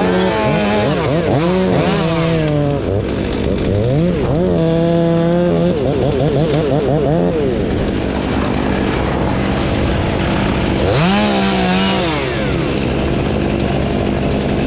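Gas chainsaw running under repeated throttle changes, its engine pitch rising, holding and dropping again and again, at times with a second engine overlapping.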